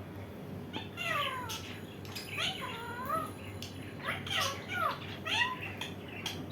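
Indian ringneck parrot vocalising: a string of short calls that bend up and down in pitch, grouped from about one second in until near the end.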